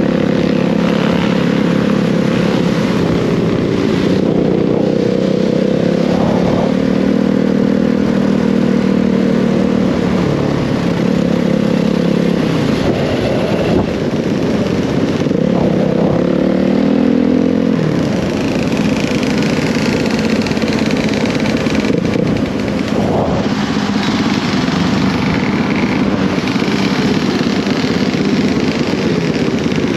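Dirt bike engine running under way, its pitch rising and falling with the throttle, at times with a second engine's note crossing it.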